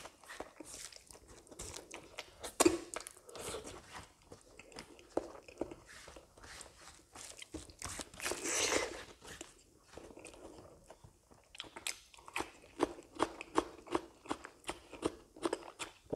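A man chewing and crunching a mouthful of rice and fried egg, close to the microphone, with wet mouth clicks. There is a louder bite a few seconds in, a longer noisy burst around the middle, and a steady run of chews about two or three a second near the end.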